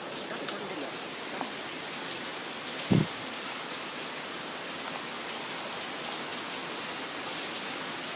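Heavy rain falling hard, a steady hiss with scattered drip ticks. A single brief thump about three seconds in is the loudest moment.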